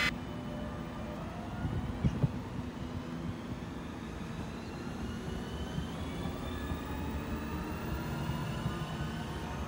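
Electric train at a station platform, running with a steady rumble while its motor whine slowly rises in pitch as it gathers speed. Two sharp clunks come about two seconds in.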